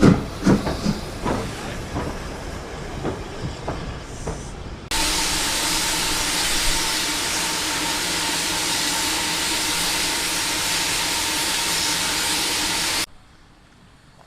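Steam locomotive exhaust beats fading as it pulls away. About five seconds in, a loud steady hiss of escaping steam starts suddenly, runs for about eight seconds and cuts off abruptly.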